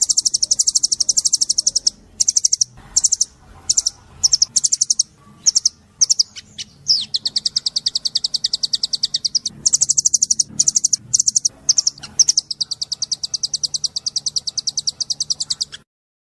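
Songbird singing 'tembakan': very fast, high-pitched machine-gun trills. Long runs are broken by short bursts in the middle, and the song cuts off abruptly near the end.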